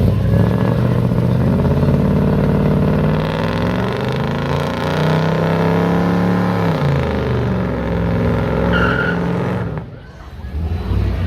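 A car engine running as the car drives past, its pitch bending up and then falling away as it passes. The sound dips briefly near the end.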